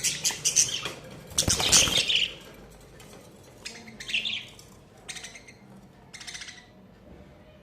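Pet budgies chirping and chattering in short, irregular bursts, loudest in the first two seconds and then in shorter spurts.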